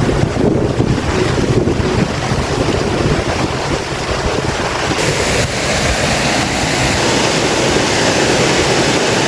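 Steady rush of falling water from a waterfall, with wind buffeting the microphone.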